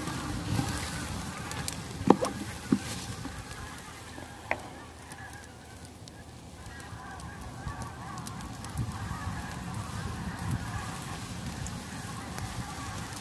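Octopus and vegetables sizzling in a wok over a wood fire, with a few sharp knocks of the spatula against the wok in the first few seconds.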